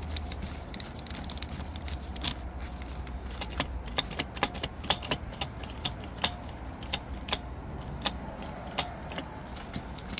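Irregular sharp metallic clicks from a starter motor's drive clutch being worked by hand to check that it engages and reaches the switch. The clicks come thickest in the middle, over a low steady hum.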